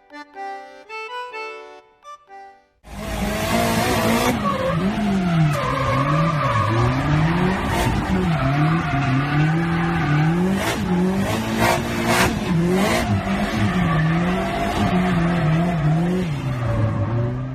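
Brief instrumental music, then about a couple of seconds in a car engine revving hard, its pitch rising and falling over and over, with tyre squeal: a car being drifted.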